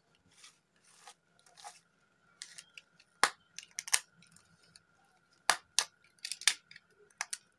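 Sharp clicks and snaps, spaced out at first and then coming in quick runs, as a small red stapler is used to pry staples out of a plastic blister pack, with light rustling of the plastic near the start.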